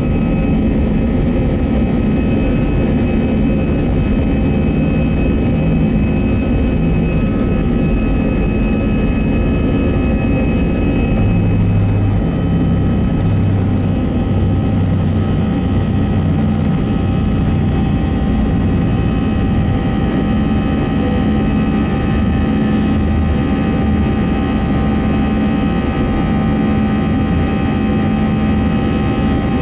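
Airbus A320 jet engines heard from inside the passenger cabin: a loud, steady drone with several steady whining tones above it.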